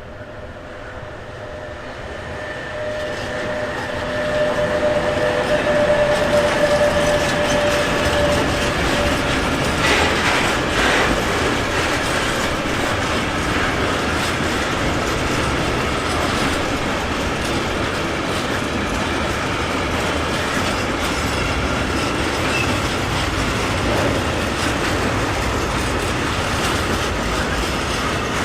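A train passing on the line: it draws near and grows louder over the first few seconds, with a thin squealing tone at first, then the wagons roll by in a steady clickety-clack over the rail joints.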